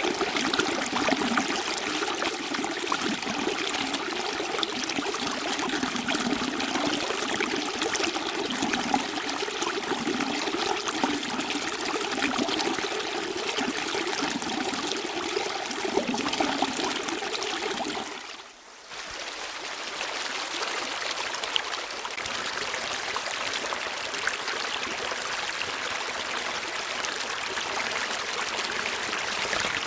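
Flowing stream water, a steady trickling rush. About two-thirds of the way in it dips briefly and comes back with less low body.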